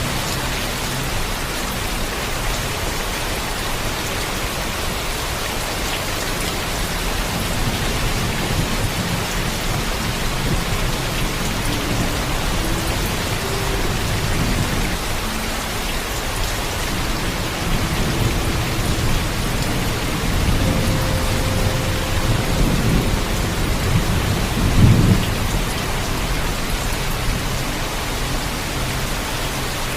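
Heavy, steady rainfall with a low thunder rumble that swells in the second half, loudest about 25 seconds in, then fades back under the rain.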